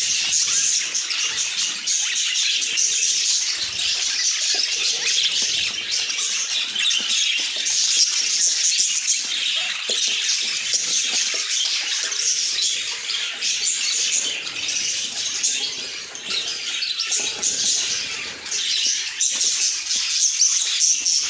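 Budgerigars chirping and chattering continuously in a dense, high-pitched stream of twittering.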